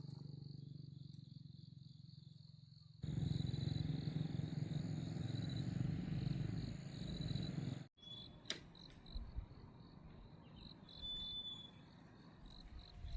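Insects trilling in a steady, pulsing chorus over a low rumble. The rumble turns louder about three seconds in and cuts off suddenly near the eight-second mark.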